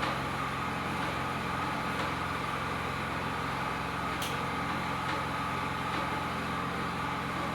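Steady background hum with a faint high tone held through it, and a single faint click about four seconds in.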